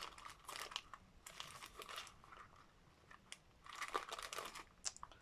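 Faint rustling and crinkling of fabric and paper craft materials being handled, in a few short spells.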